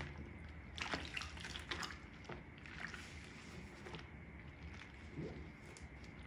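Wet makeup sponge being squeezed and worked in soapy water: irregular squelches and drips, strongest in a cluster about a second in.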